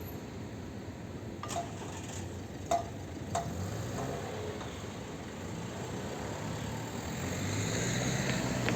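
Three short, sharp metallic clinks over steady outdoor noise, then a road vehicle drawing nearer, its low rumble growing louder near the end.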